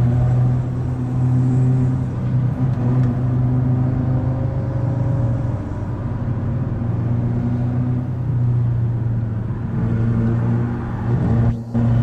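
Car engine pulling steadily with tyre and road noise, heard from inside the cabin; the engine note sags slightly around the middle, and the sound cuts out briefly near the end.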